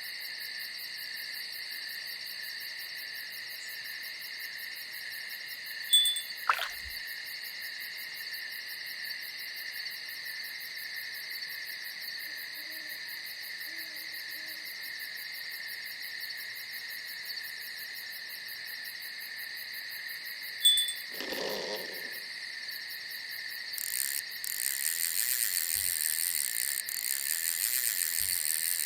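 Night insects, crickets or similar, trilling steadily and high-pitched, with a denser, louder layer of insect noise from about twenty-four seconds in. A few sharp clicks come about six seconds in and again around twenty-one seconds, the second followed by a brief low rustle.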